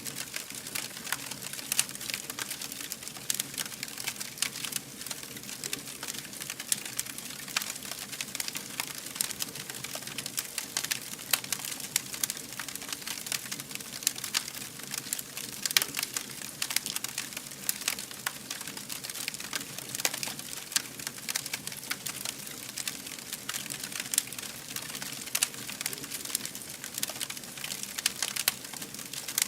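Fire burning with constant crackling: many small, sharp, irregular pops, a few louder than the rest, over a low steady rush.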